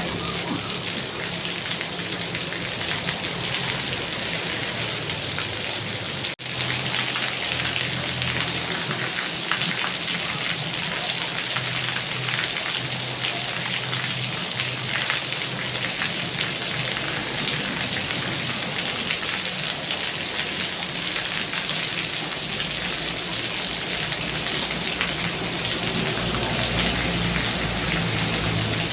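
Heavy rain falling steadily, an even hiss of many drops. The sound cuts out for a moment about six seconds in.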